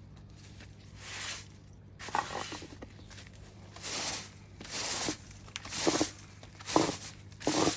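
Stiff broom sweeping a paved garden path: a series of brushing strokes, about one a second.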